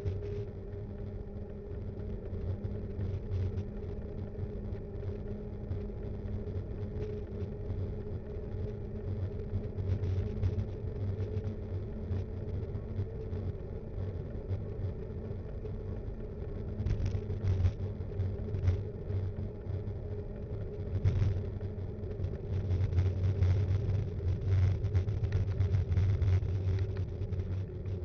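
Riding noise from a Btwin Rockrider 5.1 mountain bike, picked up by an action cam mounted on the bike: a steady low rumble of tyres and wind, with short knocks from bumps in the road. It grows louder in the second half.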